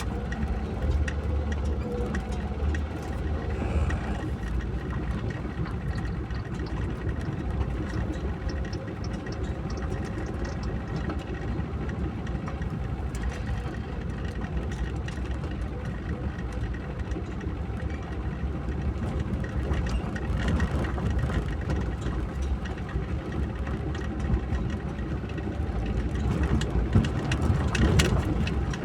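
A car driving steadily, with an even, low engine and road rumble and the hiss of rain and wet tyres.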